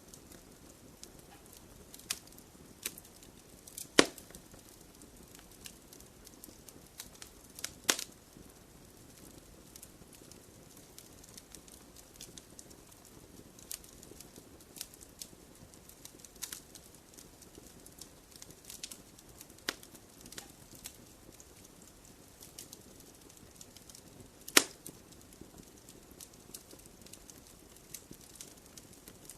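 Wood fire crackling in a fireplace: scattered sharp pops and snaps over a soft steady hiss. The loudest pops come about four seconds in, about eight seconds in, and near the end.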